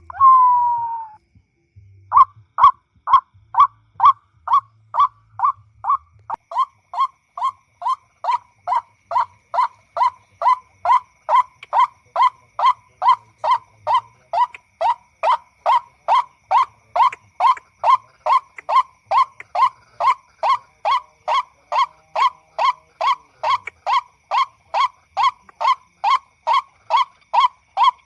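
White-breasted waterhen call played through a speaker from an MP3 as a lure: one loud note repeated monotonously about twice a second, starting about two seconds in after a short falling note.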